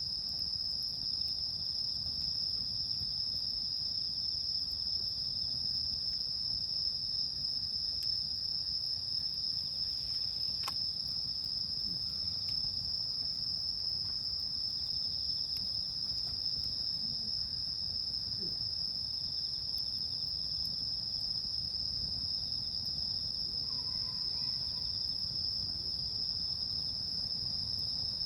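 Night insects chirring in one steady, unbroken high drone, with a few faint pops from a wood campfire.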